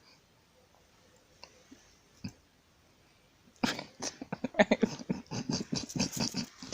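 A pet animal giving a rapid, loud string of short pitched calls, starting a little past halfway, after a couple of faint clicks.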